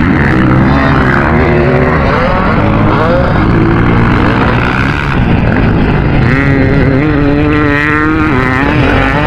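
Dirt bike engine running loud and continuous, its pitch rising and falling as the throttle is worked, with a higher wavering rev from about six to eight seconds in.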